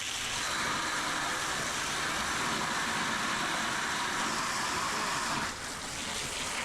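Steady rushing hiss of a fire hose nozzle spraying water, dipping briefly about five and a half seconds in.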